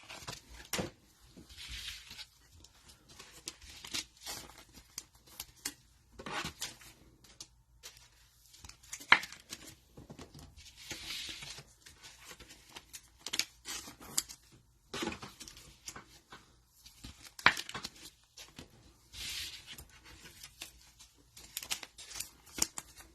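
Cellophane wrapper of a trading-card cello pack being torn and crinkled in several short bursts, among scattered clicks and taps of card handling.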